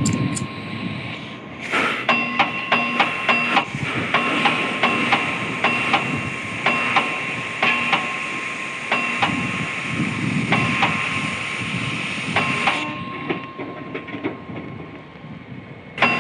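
Hammer blows on steel being forged, a few strikes a second, each with a bright metallic ring, over a steady hiss.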